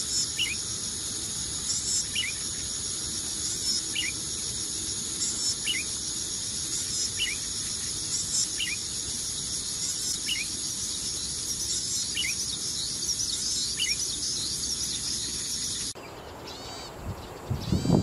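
Golden-headed cisticola calling a short, sharp note about every second and a half over a steady, high drone of insects. About two seconds before the end the drone stops, and quieter, different chirps follow.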